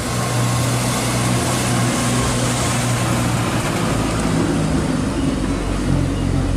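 Motor vehicle running steadily: a low engine hum under a broad rushing road noise.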